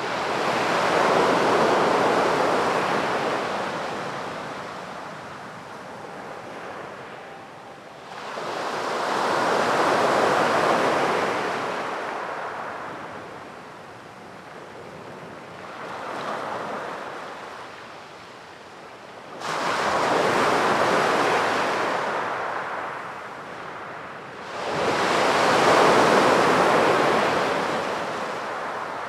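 Sea waves breaking on a beach, in about five surges that each swell up and wash back out over several seconds, one of them smaller than the rest.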